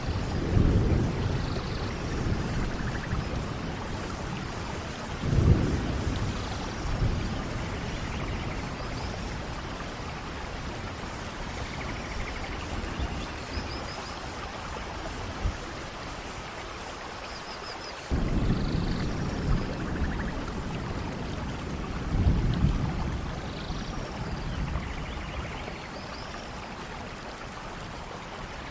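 Steady heavy rain with thunder rumbling deeply several times: near the start, sharpest about five seconds in, and again in rolls from about eighteen seconds on.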